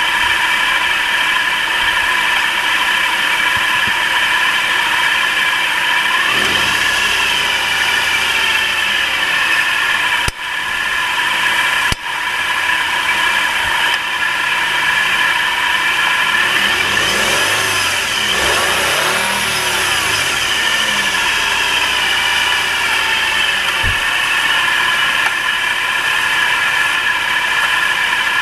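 Nissan March's 1.2-litre three-cylinder engine running steadily, with the revs raised and let fall twice, about six seconds in and again past the middle. The sound dips out briefly twice about a third of the way through.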